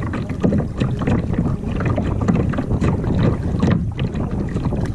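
Wind buffeting the microphone as a dense, uneven rumble, over water sounds around a kayak, with scattered short splashes or knocks.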